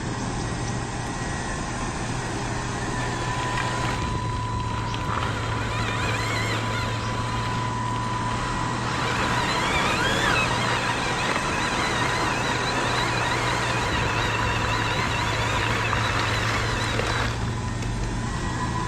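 Radio-controlled construction models working: a steady mechanical hum with a thin high whine that sets in a few seconds in, and wavering higher motor and gear whines through the middle.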